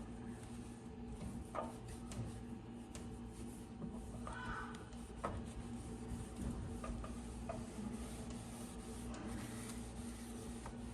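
A steady low hum with scattered light clicks and knocks, and a brief rubbing or scraping noise about four seconds in.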